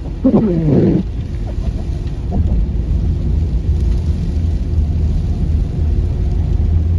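Car cabin noise while driving on a snowy, salt-treated bridge: a steady low rumble of tyres and engine with a hiss of the road surface. About half a second in, a brief falling pitched sound cuts through.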